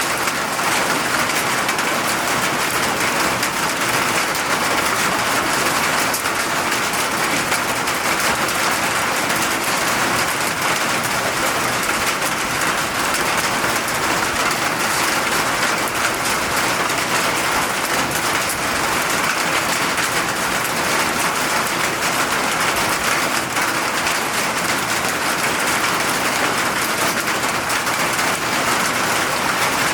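Steady rainfall: a dense, even hiss of raindrops with no breaks.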